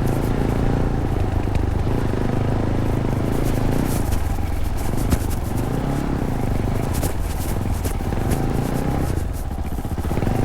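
Fantic Caballero 500's single-cylinder four-stroke engine running through its stock Arrow exhaust at a trail pace, with short clicks and clatter from riding over rough ground. The revs ease off briefly about four seconds in and again near the end.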